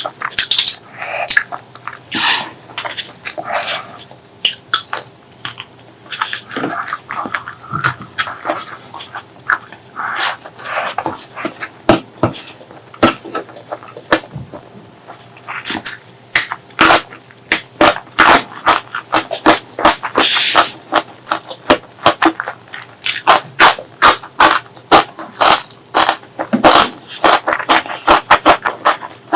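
Close-miked chewing and mouth sounds of a person eating, with many sharp clicks and smacks coming in quick runs, densest in the second half.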